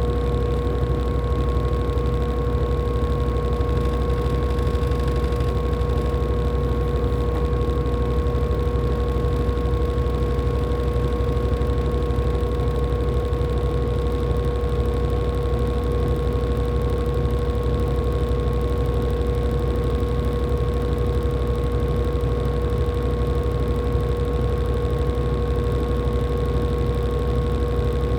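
LG top-loading washing machine spinning its drum at a steady speed in the final spin, a constant motor hum with a steady whine over it.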